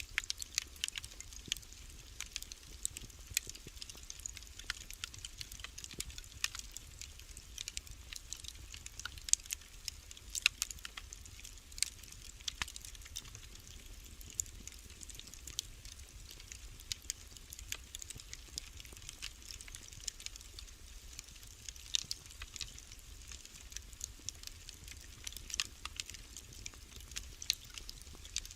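Wood fire crackling in a fireplace: many irregular sharp snaps and pops, a few louder than the rest, over a faint steady hiss.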